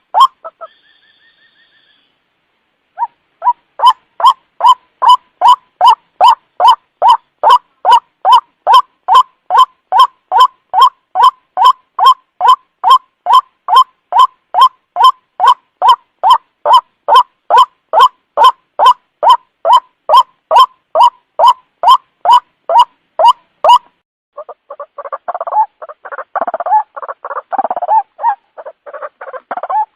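White-breasted waterhen (ruak-ruak) lure call: a loud, fast, evenly repeated call note, about three a second, runs for some twenty seconds. Near the end it breaks into a harsher, jumbled chatter. A faint short whistle-like tone sounds near the start.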